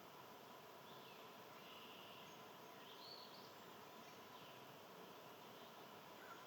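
Quiet outdoor ambience with a few faint, distant bird calls: short chirps about a second in, around two seconds, at three seconds, and once more near the end.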